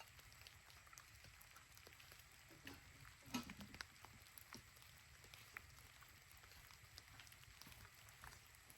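Faint raindrops dripping as scattered ticks, with a short cluster of louder clicks about three and a half seconds in.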